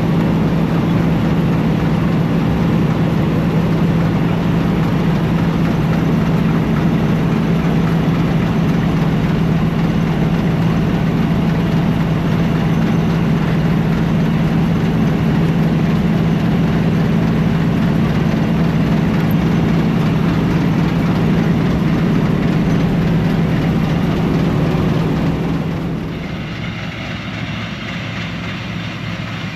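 Combine harvester running steadily with a strong low hum; near the end the sound drops noticeably quieter and the hum fades.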